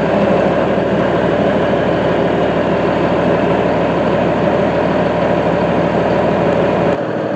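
John Deere 4055 tractor's six-cylinder diesel engine idling steadily just after starting, circulating fresh engine oil after an oil change. Its deepest low note drops away near the end.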